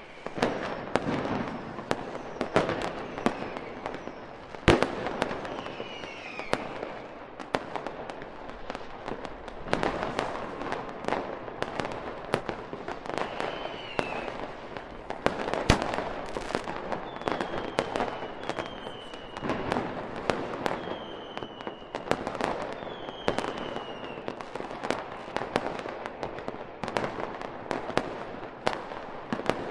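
A fireworks display: a steady stream of bangs and crackling bursts, with short falling whistles now and then.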